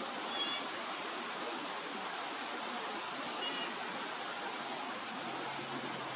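Steady rush of running water, with two short, high-pitched bird calls about three seconds apart.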